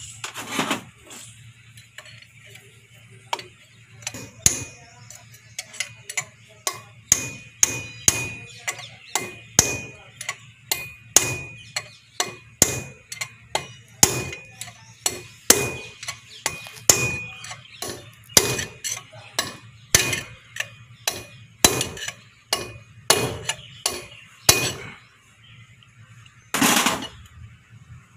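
Hammer blows on metal, about one to two a second, with a ringing metallic tone, driving a new seal or bearing race into a JCB backhoe's front wheel hub. A single longer, rougher noise comes near the end.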